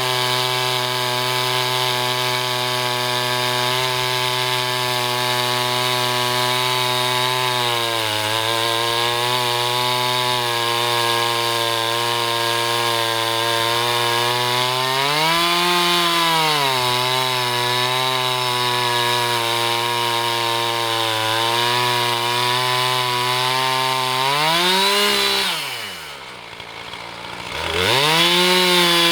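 Husqvarna 445 two-stroke chainsaw on an Alaskan mill running steadily at full throttle under load as it rips through an oak log, its pitch rising and falling slightly as the cut goes. Near the end the engine revs up, drops to a low idle for about two seconds, then revs back up to full speed.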